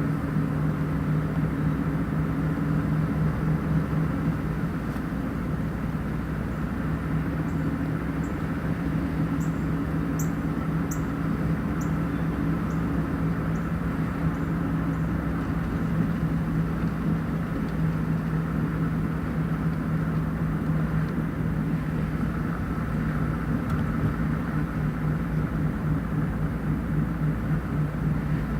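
Engine running steadily, a constant low hum that holds the same pitch throughout, with a few faint high ticks about ten seconds in.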